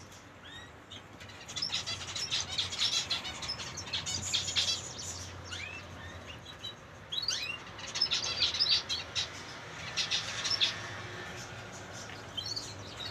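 Zebra finches chirping and calling, many short high calls overlapping in bursts, with a few quick sweeping calls among them.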